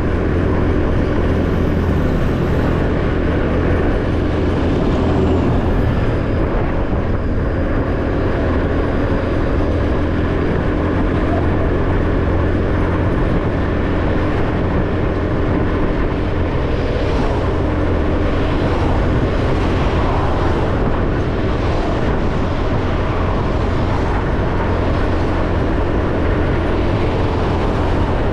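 A motorbike being ridden at a steady speed: its engine runs evenly under a constant low rumble of road and riding noise.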